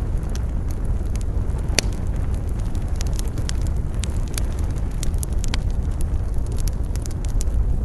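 Campfire crackling, with frequent sharp pops and snaps from burning wood, the loudest about two seconds in, over a steady low rumble of wind buffeting the microphone.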